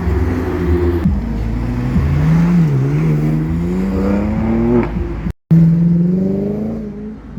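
Car engine revving as a car accelerates, its pitch dipping and then climbing steadily for about two seconds before easing off. The sound cuts out completely for a moment about five seconds in.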